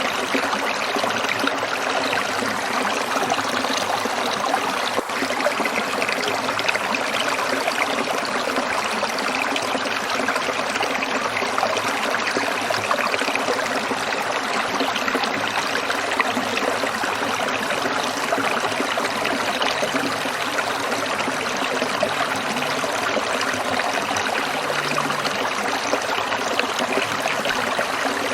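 Stream water trickling and splashing over stones, a steady, even rush of water.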